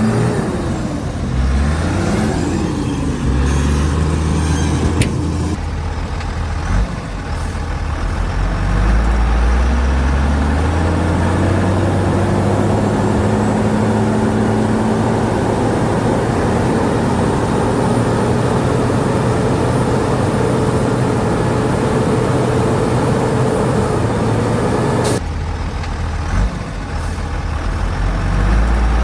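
Heavy diesel engine of a Shantui DH17C2 bulldozer working under load. Its pitch drops and rises with the throttle, climbs again, and then holds at high revs for much of the time. The sound changes abruptly near the end.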